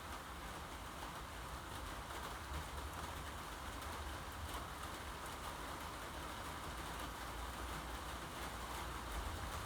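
Steady rain falling, an even hiss, with a low steady rumble underneath.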